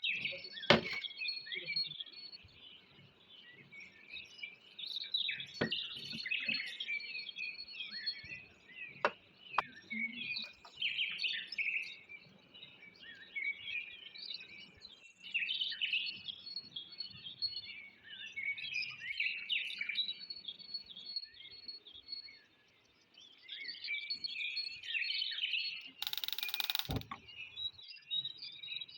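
Many small birds chirping continuously in a busy, overlapping chorus. A few sharp knocks come in the first ten seconds, and a brief loud rushing noise lasts about a second near the end.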